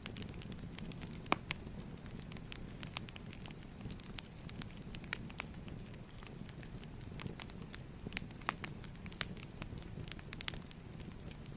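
Fireplace fire crackling: irregular sharp pops and snaps over a low steady rumble, with one louder pop about a second in.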